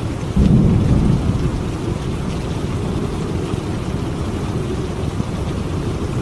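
Steady rain in a thunderstorm, with a low rumble of thunder breaking in suddenly about half a second in and fading over the next second.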